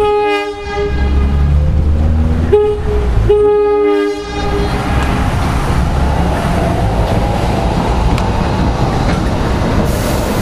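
NJ Transit Arrow III electric multiple-unit train sounding its horn for a grade crossing: a long blast, a short one, then a long one. After that comes the steady rumble and wheel noise of the train passing close by.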